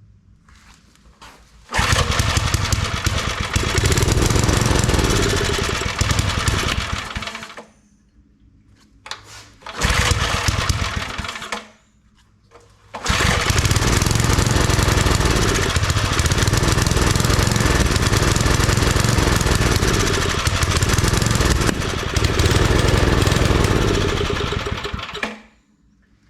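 Old 5 hp Briggs & Stratton single-cylinder engine on a wood splitter starting and running in three bursts, a long one, a short one and a longest one, each dying out after a few seconds to about twelve seconds. The engine is starved of fuel, a carburettor problem.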